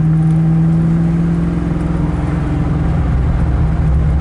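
Ford Mustang Bondurant race school car's engine running under way, heard from inside the cabin: a steady drone for the first couple of seconds, which then gives way to a rougher, lower rumble.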